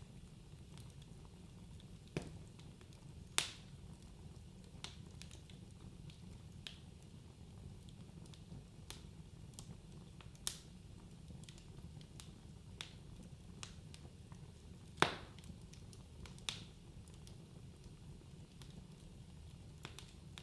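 Wood fire burning in a fireplace: a low steady rumble of flames with irregular sharp crackles and pops, two louder pops about three and a half and fifteen seconds in.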